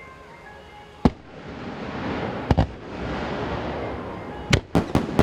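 Fireworks shells bursting: one sharp bang about a second in, a quick double bang, then a rapid run of bangs near the end. Between the bangs a rising rush of crackle and echo builds up.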